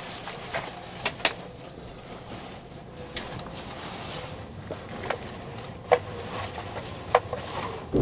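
Cabin of an E657-series limited-express electric train pulling slowly out of the platform: a steady hiss with scattered sharp clicks and knocks.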